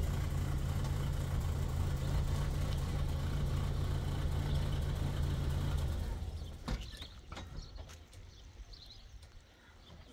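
A motor vehicle engine running steadily, dying away about six seconds in, followed by a few sharp knocks.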